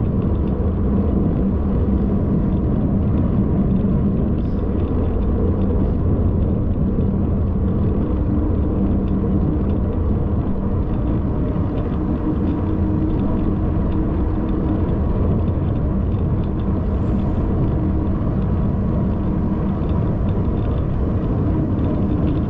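Steady low rumble of wind and motion noise on the microphone, even and unbroken, with a faint steady hum running through it.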